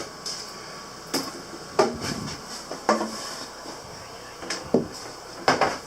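Several short, sharp knocks and clunks at irregular intervals, from handling things in a cabinet or under the counter.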